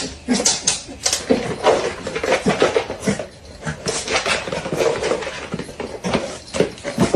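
A dog whining and yipping among many short, clattering knocks.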